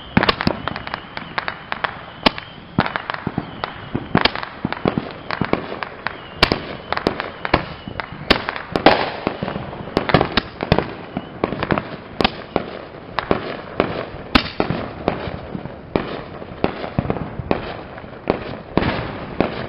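Fireworks going off: a long, irregular run of sharp bangs and pops, several a second, some much louder than others.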